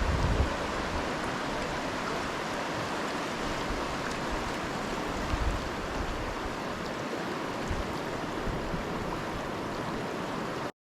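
Steady rushing of flowing river water, with a few low rumbles underneath; it cuts off abruptly near the end.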